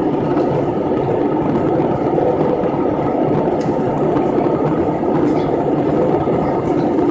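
Steady, even rumble of a moving vehicle heard from inside, with no distinct events.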